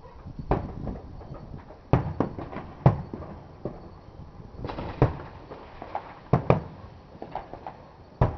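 Fireworks going off: an irregular run of bangs and pops, the sharpest about two, three, five, six and a half and eight seconds in.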